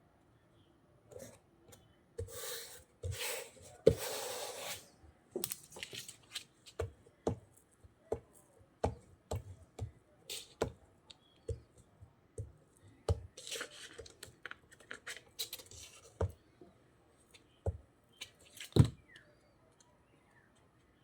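Hands working paper and cardstock at a table. There are two spells of paper noise, a couple of seconds in and again about two-thirds of the way through, among many small taps and clicks as materials are handled and set down.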